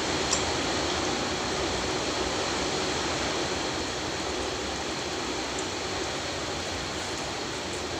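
Heavy rain falling steadily, an even hiss, with a few faint clicks.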